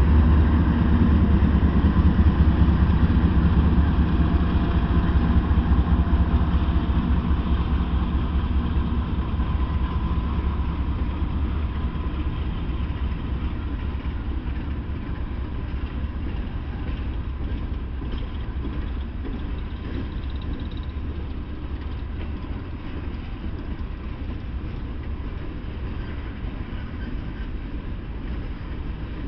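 Norfolk Southern diesel freight locomotive passing, its engine loudest in the first few seconds and fading steadily as it moves on. After that comes the continuous noise of open-top hopper cars rolling over the rails.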